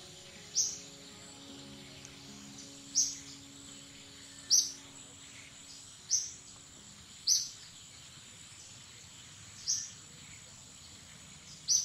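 A bird repeating a short, sharp, high chirp seven times at uneven gaps of one to two and a half seconds, over a steady high insect hum.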